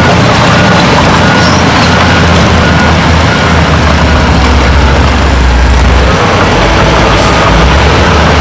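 Heavy diesel earthmoving machinery, bulldozer and dump truck, running steadily with a deep low rumble. A short hiss comes about seven seconds in.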